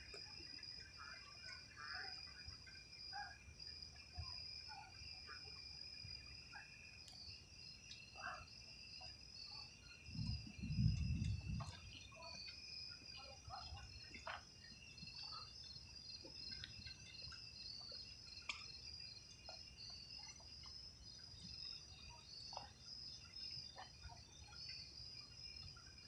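Steady chorus of night insects such as crickets, a continuous high trill with a pulsing one above it and scattered short chirps. About ten seconds in, a low rumble lasting a couple of seconds is the loudest sound.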